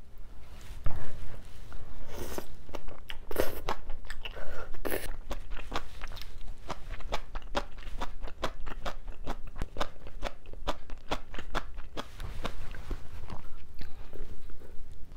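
Close-up sounds of someone eating a mouthful of crunchy bean sprouts in spicy sauce. A few noisy sounds come as the mouthful goes in, then a long run of crisp crunches at about three a second.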